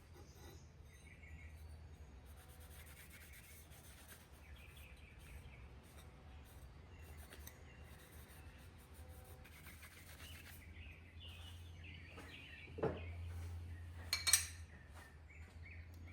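Faint bird chirps over a steady low hum, with a knock about 13 seconds in and a sharper metallic clink about a second later as the parts of a new bench plane are handled.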